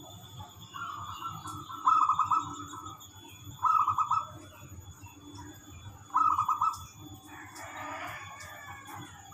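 Zebra dove (perkutut) cooing: three phrases of rapid, stuttering coo notes, each a second or two apart. Near the end there is a rougher, noisier sound.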